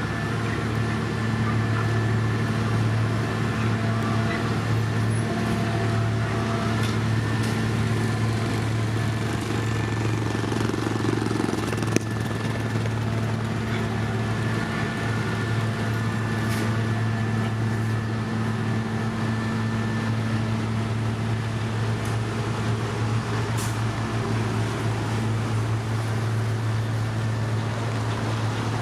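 Heavy construction machine's engine running at a steady speed, a constant low hum with no change in revs. A single sharp click about twelve seconds in.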